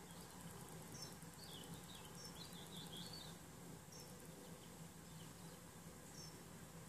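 Faint birds calling: short high chirps every second or two, with a brief run of twittering from about a second and a half to three seconds in, over a low steady hum.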